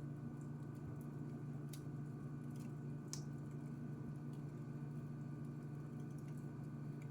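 Fireplace fire crackling, with a few scattered sharp pops, the loudest about three seconds in, over a steady low hum.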